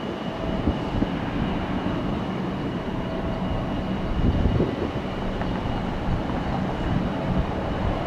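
Jet airliner engines at takeoff thrust: a steady, loud rumble with a thin high whine over it.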